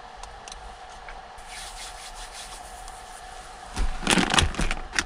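A spoon scraping and stirring in a pot of grits: rough rubbing strokes that grow louder near the end, over a faint steady hum.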